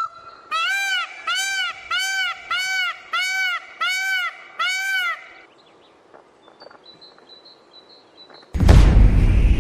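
Peafowl giving a run of about seven loud honking calls, each a short rising-then-falling cry about half a second apart; faint chirps follow. Near the end a loud burst of rushing noise lasts about a second.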